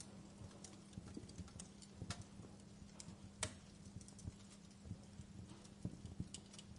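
Wood fire crackling: faint, irregular sharp pops and snaps, the loudest about three and a half seconds in.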